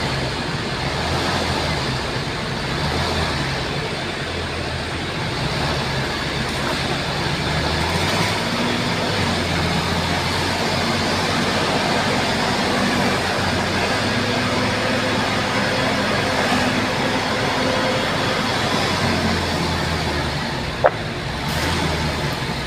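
Bulldozer's diesel engine running steadily, its low note shifting as the load changes, with one sharp click near the end.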